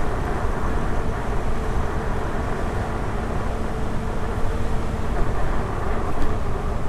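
Wind and road noise while riding a Begode Blitz electric unicycle: a steady rushing rumble with a faint steady hum underneath.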